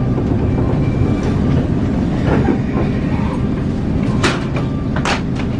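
Interior sound of a 117 series electric train rolling slowly along the platform as it arrives, a steady low rumble of wheels and running gear, with two brief hissing noises about four and five seconds in.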